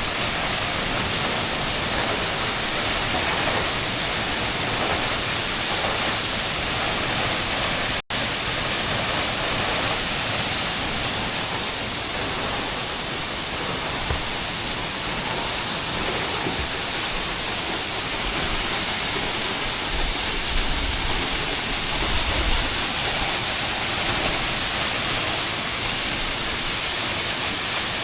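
A waterfall about 20 m high pouring into its plunge pool: a steady, full rush of falling water. It drops out for an instant about eight seconds in, and a few low thumps come near the end.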